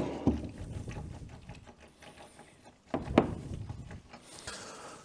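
Old engine oil draining from the BMW R1100GS boxer engine's sump into a drain pan, splashing at first. There is a knock right at the start and two more about three seconds in.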